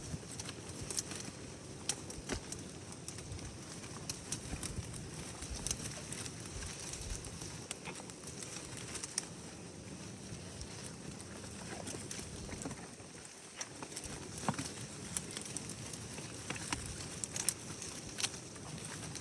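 Goats feeding, with irregular crunching and rustling clicks as they chew and pull at fodder.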